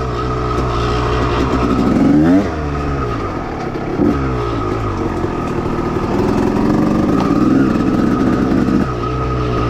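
1989 Honda CR250R's 250 cc single-cylinder two-stroke engine running, revved sharply up and back down about two seconds in, with a shorter blip about four seconds in.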